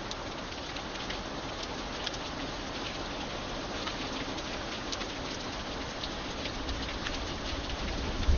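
Steady rain falling, with many separate drops ticking on a hard surface. Near the end a low rumble of thunder begins to build.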